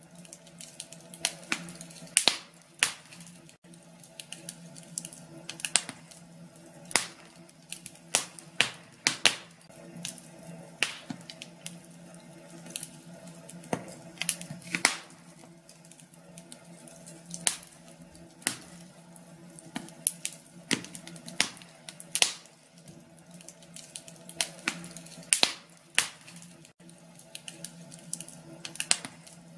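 Wood fire crackling in a fireplace: irregular sharp pops and snaps, several a second with louder ones scattered throughout, over a faint steady hum.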